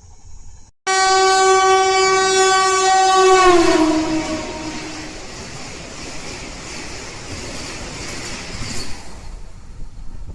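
A passing express train's horn sounds one long blast about a second in, its pitch dropping as the train goes by. The rush and rail clatter of the train passing at speed follows and fades toward the end.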